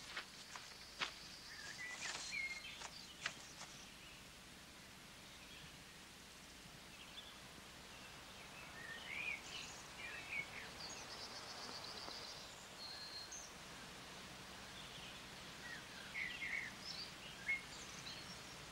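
Faint wild outdoor ambience with scattered bird chirps and a short trill, mostly in two clusters in the middle and near the end. A few sharp light clicks come in the first few seconds.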